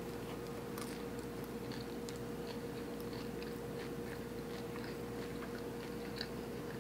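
Close-miked chewing of a Fruity Pebbles cereal-topped donut: soft, scattered mouth clicks and smacks over a steady low hum.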